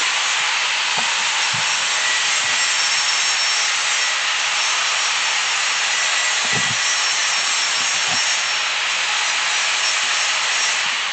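Angle grinder running continuously against steel: a steady, harsh hiss with a faint whine.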